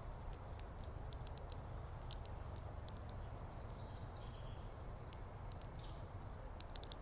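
Small birds giving short, high chirps, scattered and now and then in quick runs of three or four, over a steady low background rumble.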